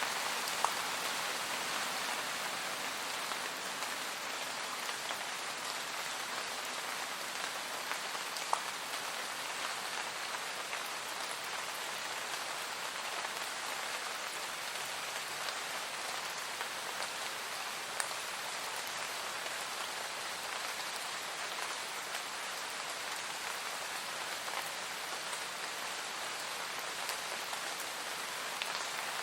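Calm, steady rain falling, with a few sharper single drop hits.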